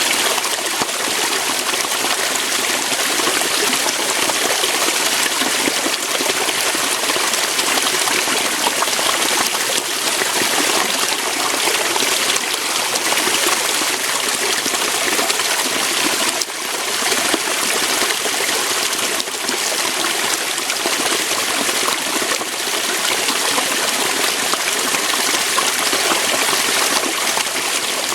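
Waterfall: water flowing over rocks in a steady, dense rush with a faint dip about halfway through.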